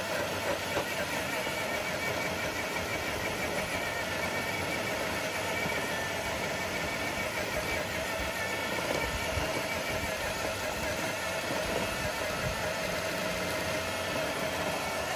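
Electric motor and gearbox of an RC scale truck whining steadily as it drags a dead-weight pulling sled, ending in a full pull.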